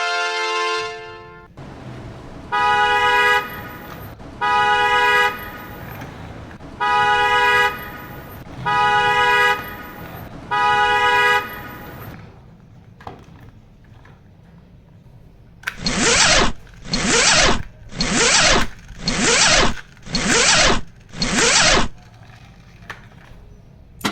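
A horn honking five times, each honk about a second long and roughly two seconds apart, followed after a pause by six short, harsh, noisy bursts about a second apart.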